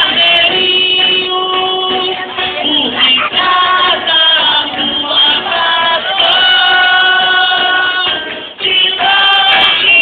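Music: a song sung by several voices together, the notes held long and changing in steps.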